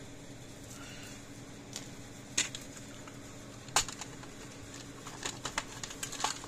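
Scattered light clicks and taps of small tools and parts being handled at a workbench, a few single ones and then a quick cluster near the end, over a steady low hum.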